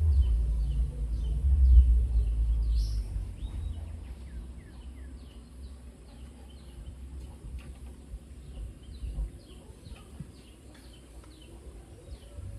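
Small birds chirping in a quick, continual series of short falling chirps. A low rumble under them fades out over the first few seconds.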